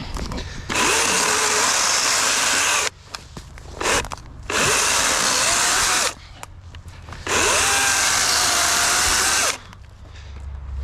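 DeWalt 60-volt brushless cordless chainsaw with a 16-inch bar cutting logs in three runs of about two seconds each, with a short blip of the motor between the first two runs. The motor's pitch wavers as the chain bites into the wood.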